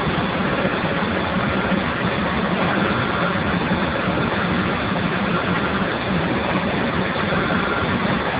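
Steam boiler running steadily: a continuous hiss with a low hum underneath, unchanging throughout.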